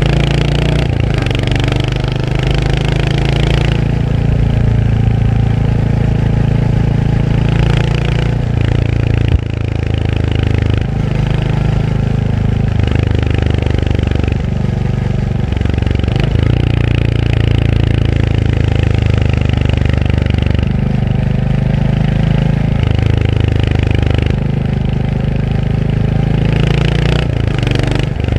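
Royal Enfield Hunter 350's single-cylinder engine running under way, its note stepping up and down several times as the throttle is opened and closed, with one sharp knock about nine seconds in.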